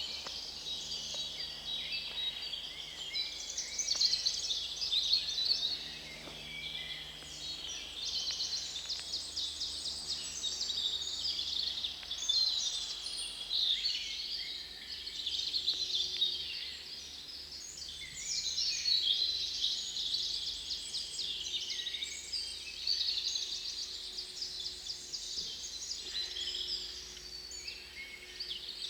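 Several songbirds singing at once in a dense spring chorus of fast, high trills and chirps, overlapping without a break.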